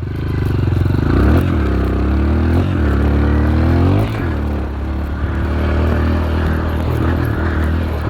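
Dirt bike engine pulling away under throttle. Its pitch climbs and drops sharply three times in the first four seconds as it shifts up through the gears, then it runs at a steadier, lower pitch with a couple of smaller rises.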